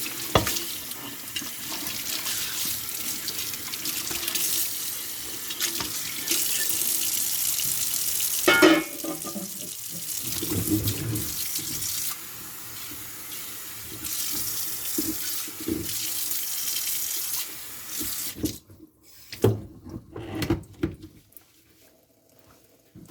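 Kitchen tap running into a sink during hand dishwashing, with dishes clinking and clattering under the water. The water stops about three-quarters of the way through, followed by a few separate knocks.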